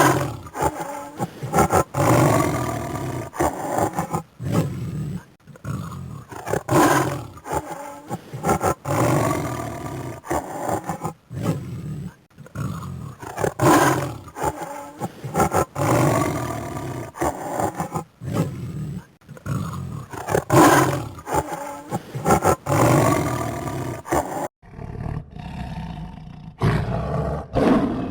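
A big cat roaring and growling in repeated bouts, one call every second or two, broken by short gaps.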